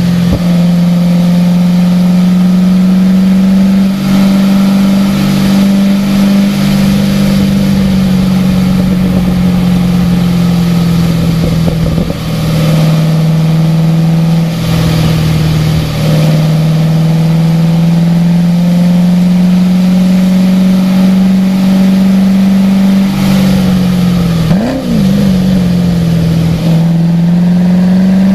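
Car engine running hard on a lapping car, its pitch stepping up and down with throttle and gear changes. There is a quick rev blip about 25 seconds in.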